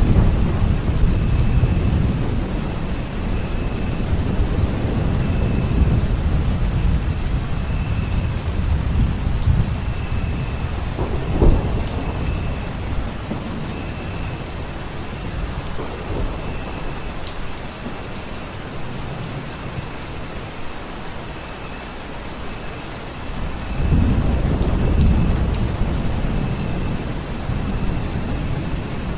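Steady heavy rain with thunder rolling through it. A sharp crack of thunder comes about a third of the way in, and a deep rumble swells up near the end. A faint high chirp repeats about once a second over the rain.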